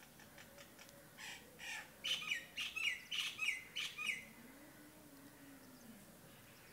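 A bird calling: a quick run of about nine harsh notes, starting about a second in and lasting about three seconds.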